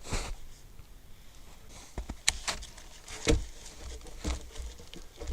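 Rustling and crunching in wet snow with a few sharp knocks of wooden poles being handled and laid for a log bed, the loudest knock about three seconds in.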